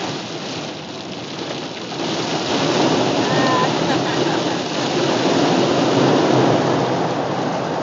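Heavy rain runoff pouring off an overpass onto a moving car: a dense rushing noise that swells about two seconds in, stays loud, and begins to ease near the end.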